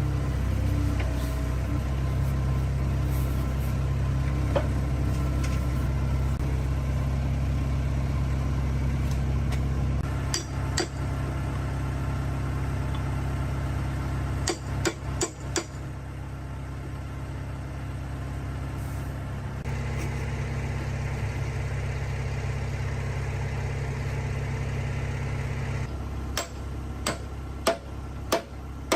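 A motor or engine running steadily, with a few sharp knocks at times: a pair about ten seconds in, a cluster about fifteen seconds in, and several more near the end.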